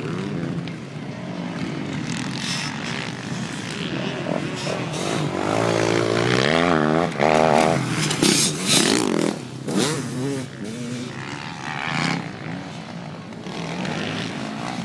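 Motocross bike engines revving up and down as riders lap the track. They are loudest between about six and nine seconds in.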